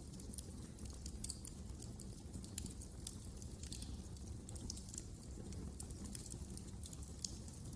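Fire burning in a fireplace, crackling: frequent small, irregular snaps and pops over a low, steady rumble of the flames.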